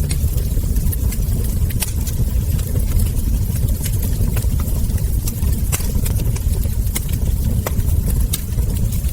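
Wood fire burning: a steady low rumble with sharp crackles and ember pops about once a second.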